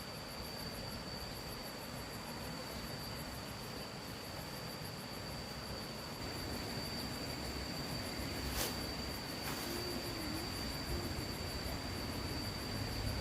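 Insects chirring steadily: a thin, high, unbroken buzz with a fast pulsing trill above it. A single sharp click comes a little past the middle.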